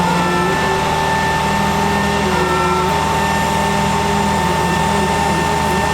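International DT466 diesel engine of a 2005 International 4400 truck running steadily, with a steady high whine over the engine note.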